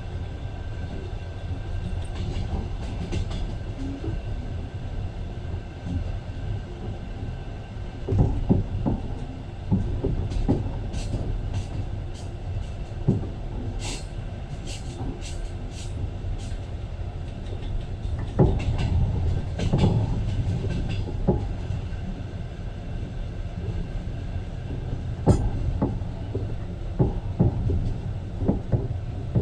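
A railway carriage in motion: a steady low rumble with irregular wheel clatter and knocks over the track, and a spell of sharp clicks in the middle.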